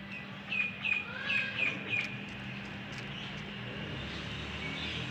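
A small bird chirping in a quick run of about five short, high calls in the first two seconds, with one more call near the end.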